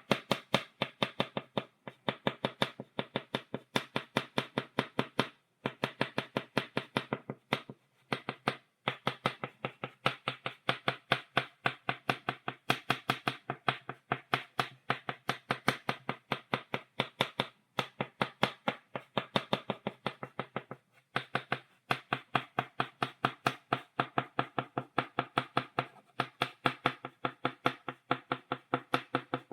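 Stick of chalk tapped rapidly against a blackboard, stippling dots: a fast, even run of sharp taps, several a second, broken now and then by short pauses.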